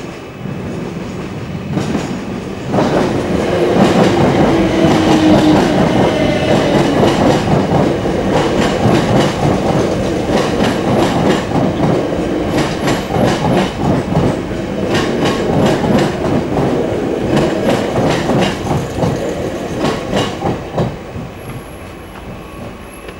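South Western Railway electric multiple unit passing over a level crossing, its wheels clattering in a steady rhythm over the rail joints, with a short wheel squeal about four seconds in. The sound swells about three seconds in and dies away near the end.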